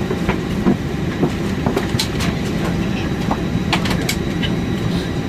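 Airbus A320 cabin at the gate: a steady low hum from the aircraft's air supply, with scattered light clicks and knocks from the cabin.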